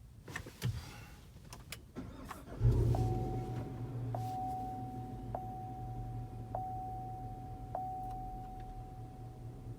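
2019 Chevrolet Tahoe RST's 6.2-litre V8 with a Corsa exhaust started, heard inside the cabin: a few clicks, then the engine catches about two and a half seconds in with a loud flare and settles to a steady idle. A thin warning chime repeats about every second over the idle.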